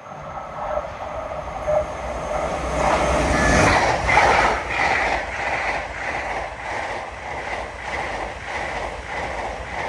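Two coupled Class 802 Paragon trains passing through the station at speed. The rush of the train builds to its loudest about four seconds in, then settles into a steady clickety-clack of wheels over rail joints, about two clicks a second.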